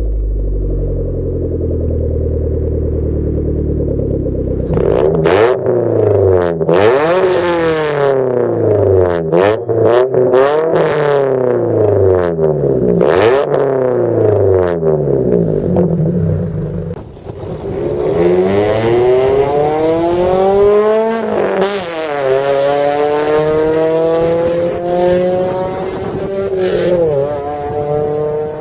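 Mazda Protege four-cylinder engine through an aftermarket exhaust. It idles, then is blipped repeatedly in quick free revs with a few sharp cracks among them. Later it pulls hard under acceleration, the pitch climbing, dropping at a gear change about three-quarters of the way in, then climbing again.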